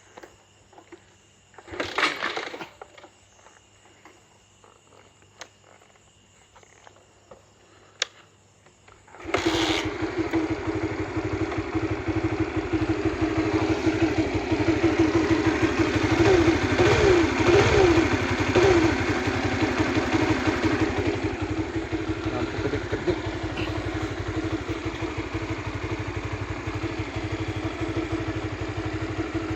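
Honda Supra GTR 150 single-cylinder motorcycle engine kick-started after a few clicks and a thump, catching about nine seconds in, revved with a few throttle blips, then settling to a steady idle. The uploader traces the bike's dead electric starter and lighting to a failed stator.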